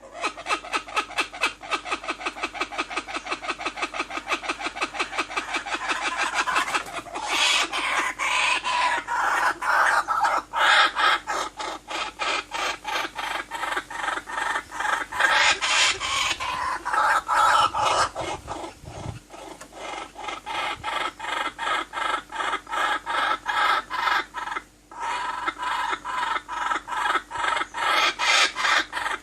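A bird giving a rapid, regular run of clucking calls, about six a second, kept up with only a brief pause near the end.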